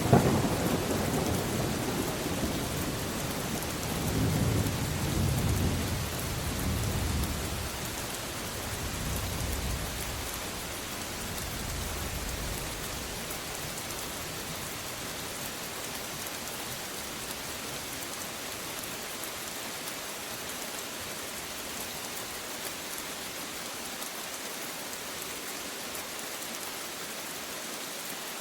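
Steady rain with a rolling thunder rumble in the first part that dies away, leaving only the even hiss of rain falling.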